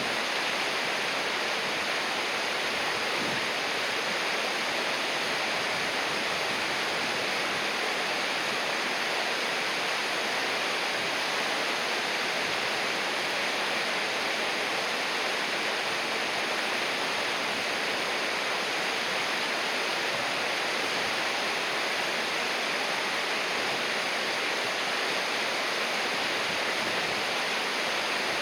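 River water rushing steadily, an even hiss of flowing water that does not change.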